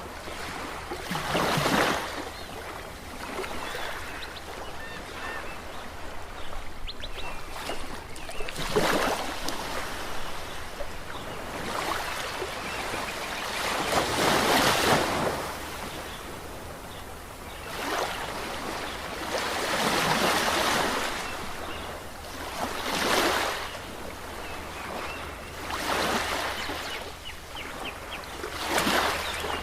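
Ocean waves breaking one after another, a swell of surf every few seconds over a steady wash, with the loudest wave about halfway through.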